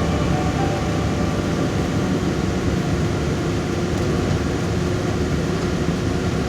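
Steady running noise of a moving train, with no distinct clicks or tones.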